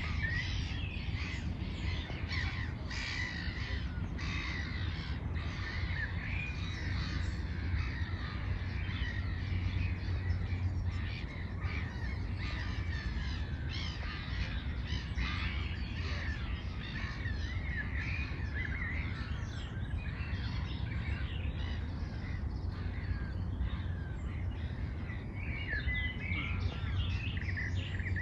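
Several birds calling and chirping continuously, including harsh caw-like calls, over a steady low rumble.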